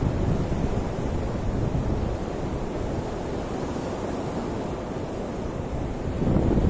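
Ocean waves washing onto the shore, with wind rumbling on the microphone; the surf eases off in the middle and a wave surges louder near the end.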